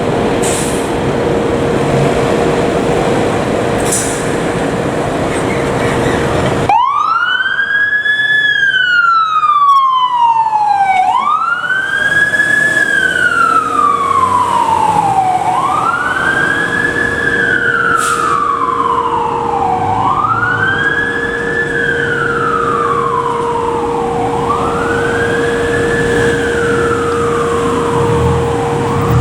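A fire truck's electronic siren on wail, sweeping quickly up and then gliding slowly down about every four seconds over a steady low tone. It comes in abruptly about seven seconds in, after a loud rushing vehicle noise with a steady hum.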